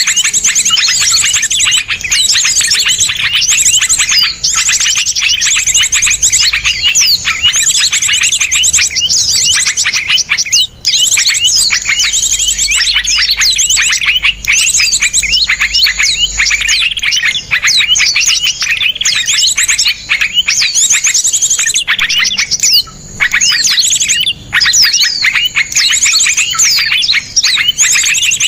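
Dense, unbroken chorus of small songbirds giving rapid, sharp chirps and trills, with only brief breaks about 11 and 23 seconds in. It is a compiled birdsong training track of small birds' coarse, closely packed burst calls, the kind played to teach caged songbirds.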